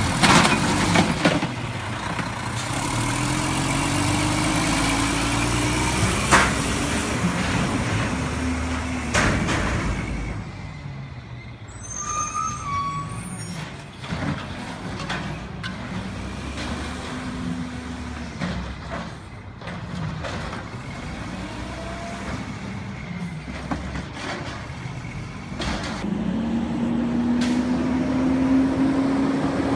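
Garbage truck's diesel engine running, its pitch rising and falling, with a few sharp knocks in the first ten seconds. The engine revs up strongly near the end.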